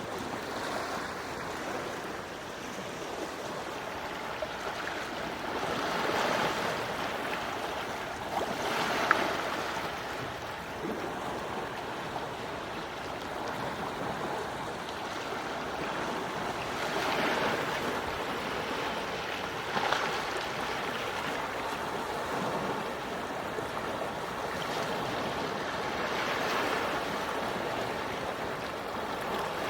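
Gentle sea waves washing ashore, swelling and ebbing three times, about every nine or ten seconds. There is a brief sharp click at the crest of two of the swells.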